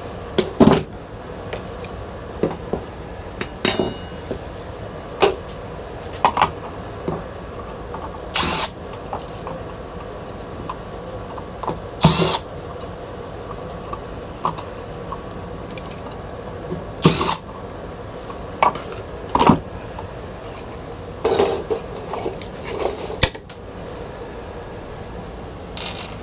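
Ceiling fan being taken apart with a power drill: brief spurts of the drill at irregular intervals, about a dozen in all, with a ringing clink of metal parts about four seconds in.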